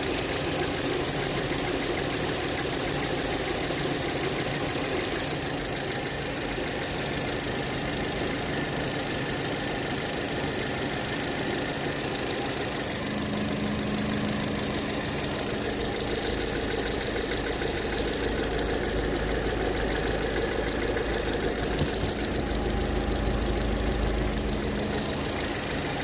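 Skoda Rapid's CWVA 1.6-litre petrol engine running after a cold start with a rapid, diesel-like knock. The owner does not know what is causing the knock.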